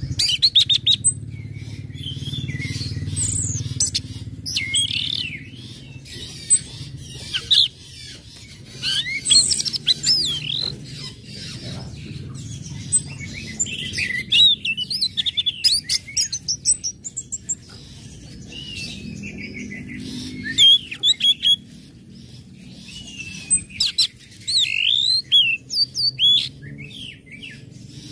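Orange-headed thrush (anis merah) singing: a varied run of quick chirps, curving whistled notes and sharp ticks, coming in bursts with short pauses, over a steady low hum.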